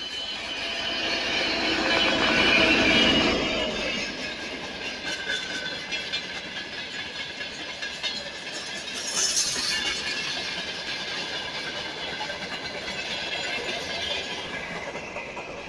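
A train running by, loudest about two to three seconds in, then a steady run of wagons clattering rhythmically over the rail joints.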